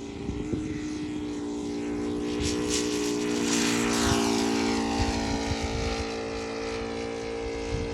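ASP 400 radial glow engine of a model Yak 55 running steadily at takeoff power as the plane climbs out, growing louder toward the middle, then dropping slightly in pitch and fading a little as it passes.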